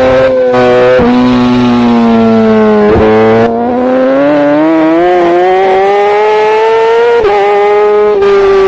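Racing superbike engine at high revs: the pitch dips about three seconds in, then climbs steadily under acceleration for several seconds before dropping sharply near the end with gear changes.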